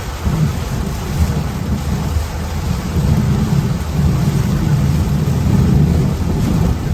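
Car driving through typhoon rain and wind: a steady low rumble of wind and road noise under a hiss of rain, swelling louder in the second half.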